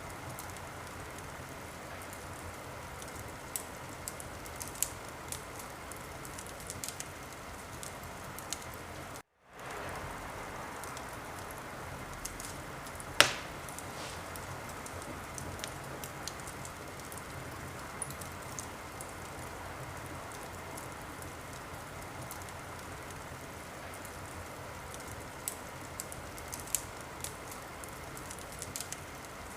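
Wood fire crackling in a fireplace: a steady hiss with scattered small snaps, one loud pop about thirteen seconds in, and a short break in the sound about nine seconds in.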